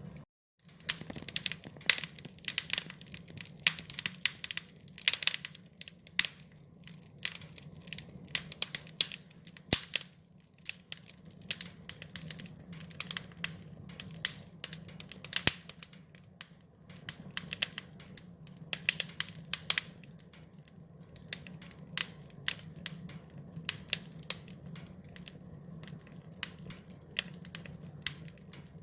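Wood fire crackling: irregular sharp pops and snaps over a steady low rumble. The sound drops out for about half a second just after the start.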